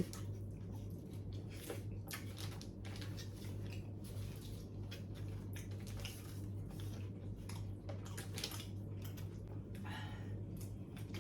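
A person eating close to the microphone: soft chewing and small scattered clicks, over a steady low hum.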